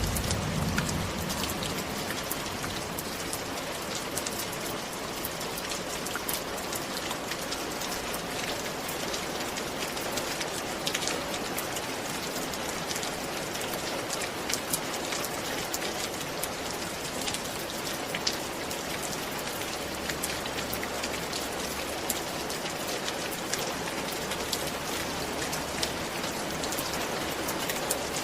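Steady rain falling, an even hiss dotted with the ticks of individual drops hitting a surface.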